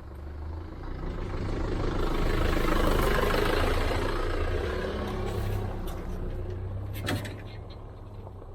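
A road vehicle passing, its noise swelling to a peak about three seconds in and then fading, over a steady low rumble. There is a short sharp click near the end.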